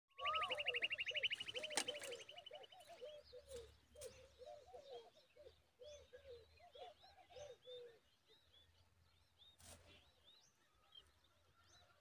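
Birds calling at a common babbler's nest: a fast, high trill for the first three seconds over a run of lower repeated calls, then soft, short, high chirps, which fit nestlings begging while they are fed.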